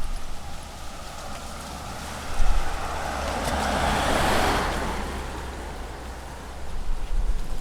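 A car passing by, its tyre and engine noise swelling to a peak about four seconds in and then fading away.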